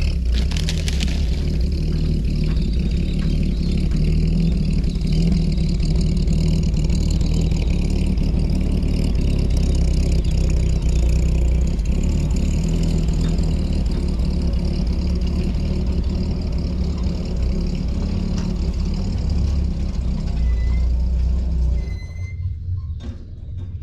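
Ford crossflow 250 straight-six engine running steadily at idle. It is still not running perfectly, with plug leads on cylinders 1 and 2 swapped because those cylinders seemed not to be running as hot. The sound drops quieter near the end.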